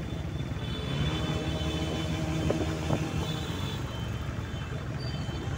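Engine of a four-wheel-drive vehicle running at low revs as it rolls slowly along a dirt track: a steady low rumble.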